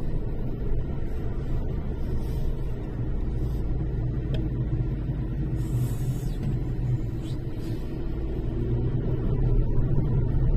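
Steady low rumble of a car on the move, engine and road noise, swelling slightly near the end.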